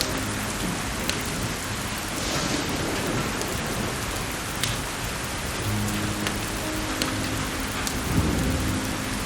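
Steady rain of a thunderstorm with thunder rumbling, once about two seconds in and more strongly near the end, with scattered sharp ticks over the rain.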